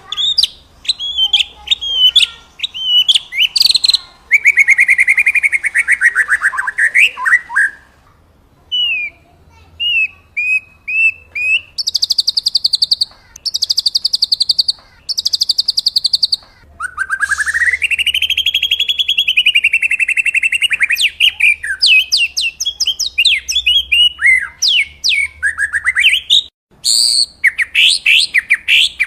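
Songbird song of the kind played as master audio for training white-rumped shamas: a loud, varied run of clear whistles and quick chirps, three rapid buzzy trills in a row around the middle, then one long whistle that rises and falls, followed by more fast chirping notes.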